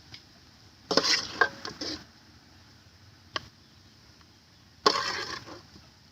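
Kitchen clatter: utensils or dishes knocking together in two short bursts about four seconds apart, with a single click between them.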